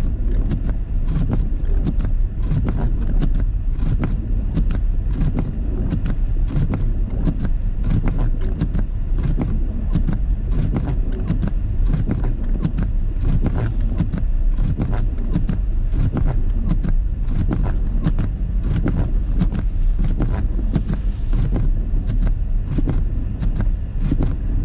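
Car interior noise while driving on snow-covered roads: a steady low rumble from the engine and tyres, with frequent small knocks and clicks from the jostling cabin.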